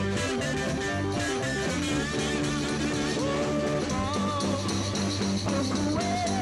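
1960s beat-group rock music played by a band with electric guitar and bass. A held, wavering melody line comes in about three seconds in.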